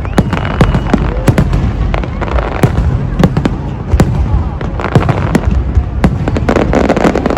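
Aerial fireworks bursting in a rapid, irregular string of sharp bangs, several each second.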